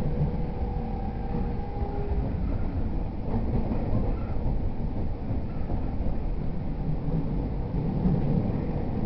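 Running sound inside an E231 series 0 commuter train: a steady low rumble of wheels on the track, with a faint whine in the first two seconds that then fades.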